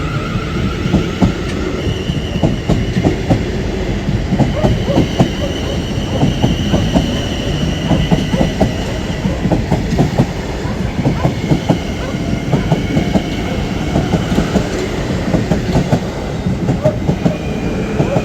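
Freight train passing over a level crossing: a steady, loud rumble with a fast, continuous clatter of wagon wheels over the rail joints.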